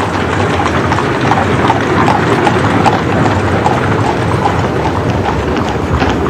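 Horses' hooves clip-clopping, many strikes overlapping at an uneven pace, over a steady murmur of street noise: a dubbed sound of horse-drawn traffic.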